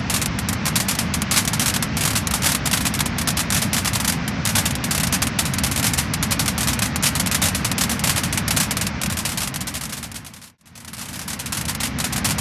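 Wood fire burning with dense, rapid crackling and popping over a steady low rumble. About ten and a half seconds in, the sound briefly fades out almost to silence and fades back in.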